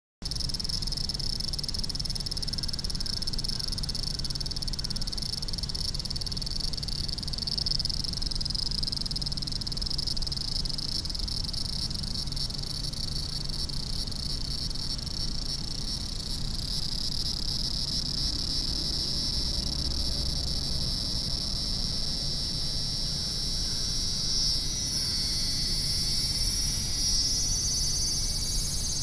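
Cicadas singing in a continuous high-pitched drone, growing louder near the end.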